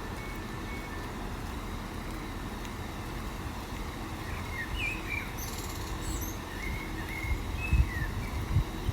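Small birds chirping a few times over a steady low rumble, with a few low thumps near the end.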